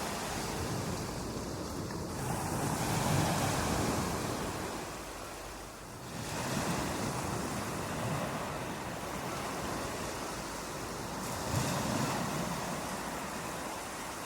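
Ocean surf breaking on a beach: waves swell in, wash up and draw back about every four to five seconds, with a steady rush of wind between them.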